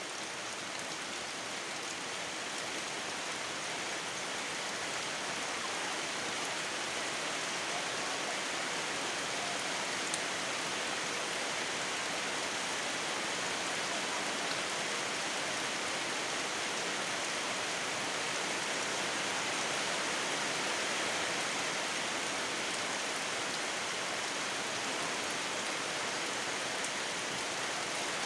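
Steady rain falling, a continuous even hiss that grows slightly louder over the first few seconds.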